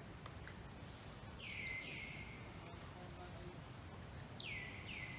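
A bird calling in pairs of short, clear notes that each slide down in pitch, two pairs a few seconds apart, over a steady low background rumble.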